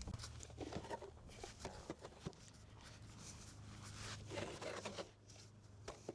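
Faint scattered clicks and rustles of objects being handled, over a low steady hum.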